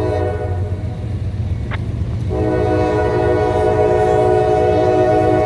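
A CSX freight train's diesel locomotive sounds its air horn in two blasts: a softer one of about two seconds, then a louder, longer one that stops near the end. The engine's low rumble runs underneath, with one sharp click between the blasts.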